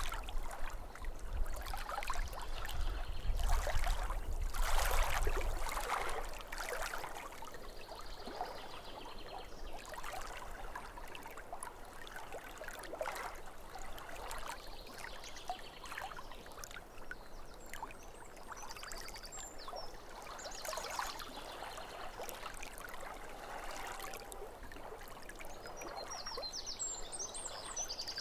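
Small waves lapping at a lake shore in repeated soft washes, louder in the first few seconds. Birds chirp briefly near the end.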